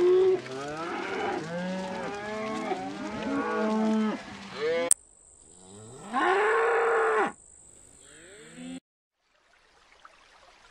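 Cattle mooing: many overlapping moos from a herd for about five seconds, then, after a sudden break, one long moo from a single cow. Near the end it drops to a faint hiss.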